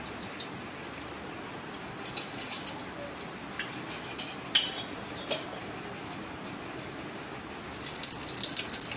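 Steady hiss with a few light metal clinks from a steel oil can and spoon over a hot iron tawa. Near the end, pieces of boiled chicken liver go onto the oiled tawa and a louder crackling sizzle starts.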